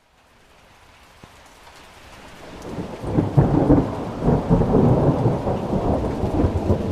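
Thunder rolling in over steady rain: a rumble that builds over a few seconds into a loud, crackling roll, then eases near the end.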